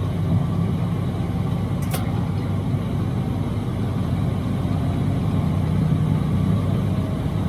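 Inside a semi's cab while driving: a Detroit DD13 diesel engine running steadily with road noise, a continuous low rumble. A single short click about two seconds in.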